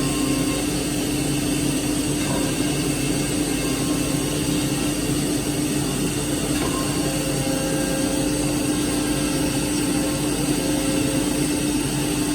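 CNC machine running steadily: a constant hum with an even hiss over it, unchanging throughout.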